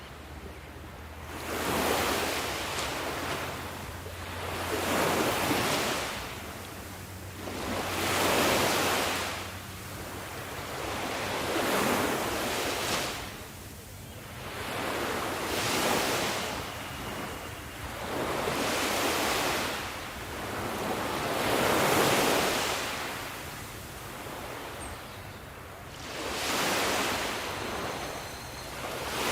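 Ocean waves washing in, each surge of surf swelling and fading away about every three to four seconds.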